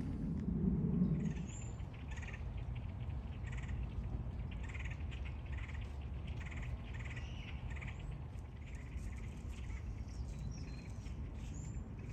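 Birds calling, a run of short repeated calls with a few higher chirps mixed in, over a steady low rumble that is louder in the first second or so.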